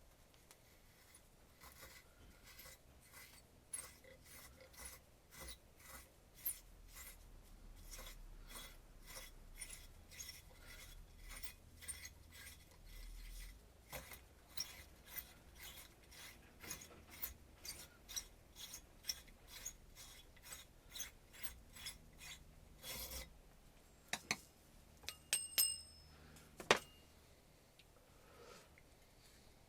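Repeated short scraping strokes, about two a second, like a hand tool being worked back and forth over a hard surface. Near the end come a few sharp clicks, some with a brief metallic ring.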